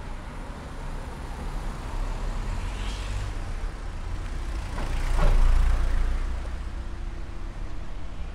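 Street traffic: a road vehicle drives past close by, growing louder to a peak about five seconds in and then fading, over a steady low rumble.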